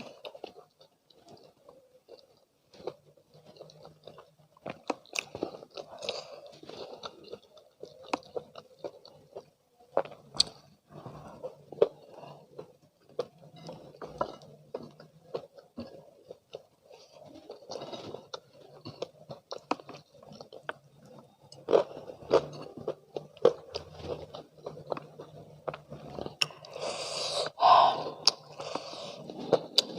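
Close-miked chewing and crunching of crispy spicy fried chicken, with many irregular small clicks and crunches; a louder, crunchier bite comes near the end.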